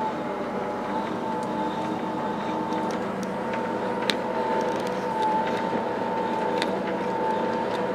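SNCF B 81500 (AGC) multiple unit running, heard from on board: a steady rumble with a high whine that wavers slightly, and scattered light clicks and rattles, the sharpest about four seconds in.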